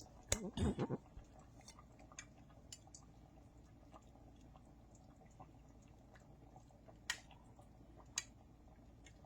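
A person tasting soup: a click about a third of a second in and a short mouth sound just after, then faint chewing with a few soft clicks, two of them sharper near the end.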